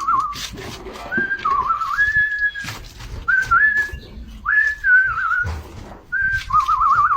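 A person whistling a tune in five short phrases, with held notes, slides and fast warbling trills, and scattered clicks and knocks.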